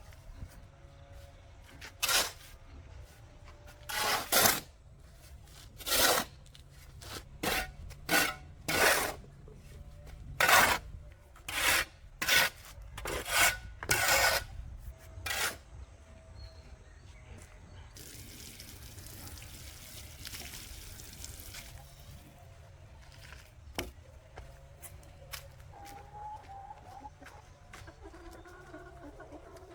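A run of about a dozen rough scraping strokes, roughly one a second, stopping about halfway through; a steady hiss follows for a few seconds.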